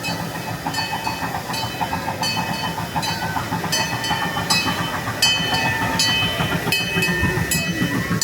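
Miniature park train running on its track, a steady low rumble with a quick, regular run of metallic clacks, a few a second, growing louder after the middle as it comes near.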